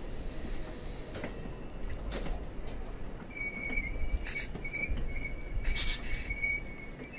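Siemens Venture passenger coaches rolling along the track: a steady low rumble of the wheels on the rails, with a few sharp clicks. From about three seconds in, a thin high-pitched wheel squeal comes and goes.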